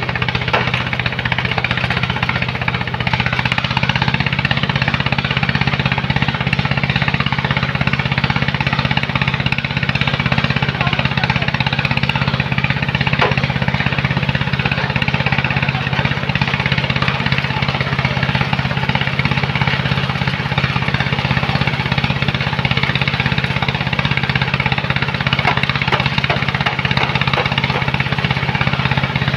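Heavy machine's engine running steadily under load, a constant low hum with a rattly, knocking edge.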